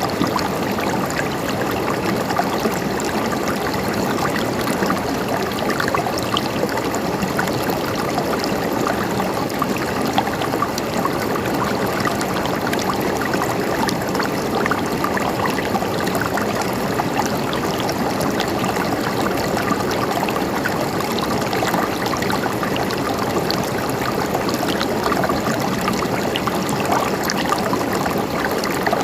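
Water flowing steadily, trickling and gurgling without a break, with small splashes scattered through it.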